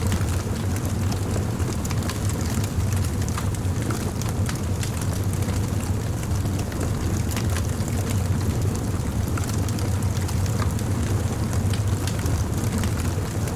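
Campfire burning: a steady low rumble of flame with frequent small crackles and pops throughout.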